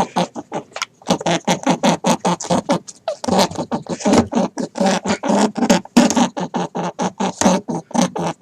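A farm animal's calls in a fast run of short repeated pulses, about six a second, with brief pauses about one and three seconds in.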